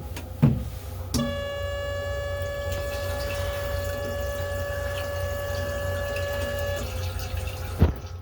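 M3 railcar restroom toilet flushing: a click, then its electric flush pump whines at one steady pitch for about five and a half seconds and cuts off. A sharp knock follows near the end, over a steady low rumble.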